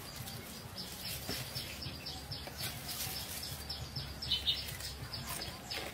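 Small birds chirping, quick short high calls repeated several times a second, over a low steady outdoor rumble.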